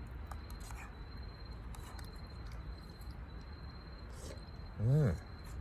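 Steady high insect trill, crickets, over a low background hiss. Near the end a person makes one short voiced "mm" that rises then falls in pitch.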